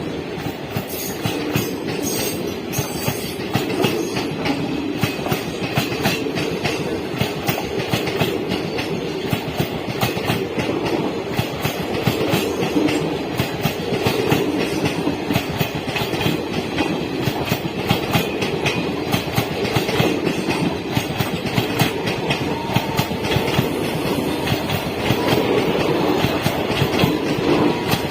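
A train running past at speed, its wheels clattering rapidly and continuously over the rail joints.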